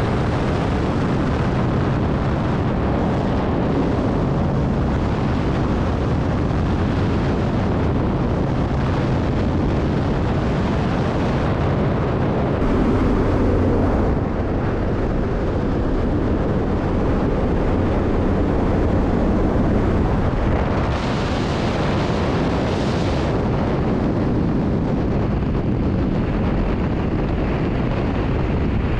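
Aircraft engine noise mixed with heavy wind rushing over the microphone, a dense, steady roar that shifts only a little in level.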